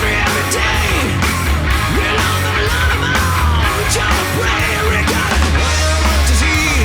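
Live hard rock band playing: distorted electric guitar with bending notes over bass and drums, with evenly spaced drum hits.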